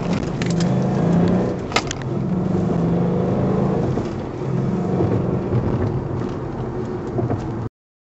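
A 2012 Mustang GT's 5.0-litre Coyote V8 running through its stock exhaust, the engine note swelling and easing. There is a sharp click about two seconds in, and the sound cuts off abruptly near the end.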